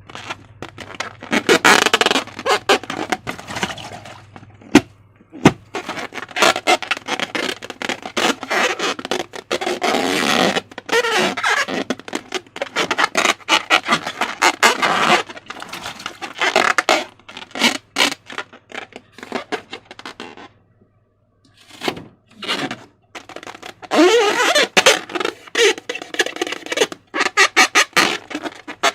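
Slime being squeezed and worked by hand: a dense run of irregular sticky squelches, crackles and squeaks, pausing briefly about two-thirds of the way through.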